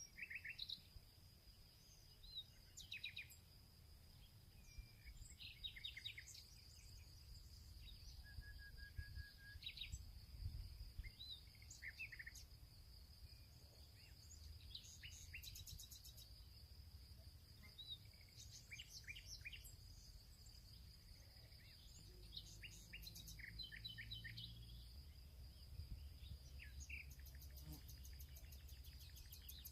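Faint field birdsong: several small birds chirping and trilling in short, scattered phrases, over a steady high-pitched tone and a low rumble.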